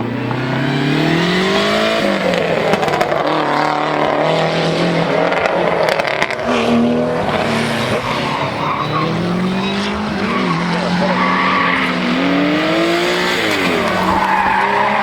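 Historic rally car engine revving hard, its pitch climbing and dropping again and again as it accelerates and lifts, with a hiss of tyre and road noise underneath.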